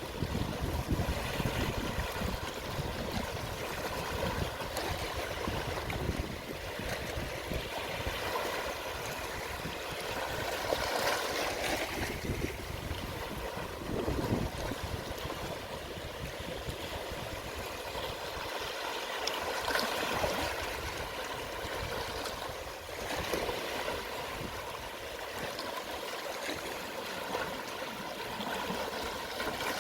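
Small, calm sea waves washing over the shore at low tide: a continuous wash of water that swells and eases every few seconds.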